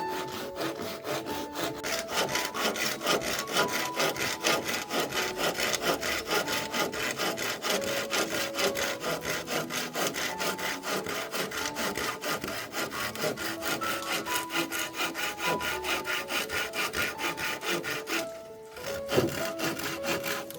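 Wood being sawn by hand in fast, even rasping strokes, about four or five a second, that stop briefly about 18 seconds in and pick up again with one louder stroke near the end. Faint background music plays underneath.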